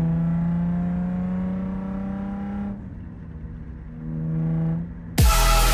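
Car engine accelerating hard, its pitch climbing steadily, then backing off about three seconds in before pulling again. Loud electronic music with heavy bass cuts in suddenly near the end.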